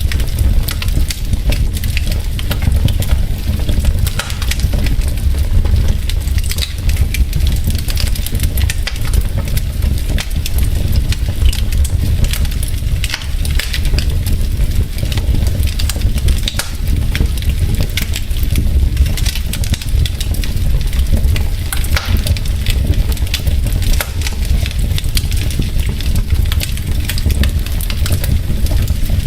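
Wood logs burning in a fireplace, crackling with many small, irregular pops over a steady low rumble.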